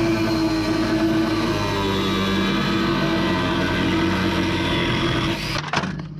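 Angle grinder with a thick cut-off disc cutting through steel chassis rails, running steadily under load with a high whine, then stopping suddenly near the end.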